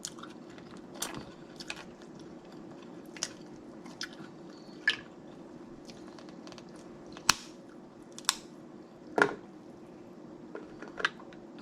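Close-miked eating of snow crab legs: scattered sharp cracks and clicks of shell breaking, with wet chewing and squishing between them.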